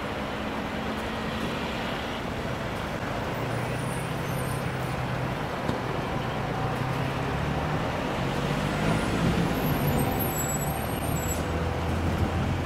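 Vehicle engines idling: a steady low hum under a constant noisy haze.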